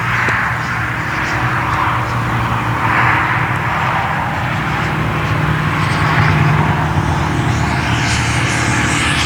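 Electric ducted-fan RC model F-4 Phantom jet flying: a steady rushing fan noise that swells and fades as the jet moves around the sky.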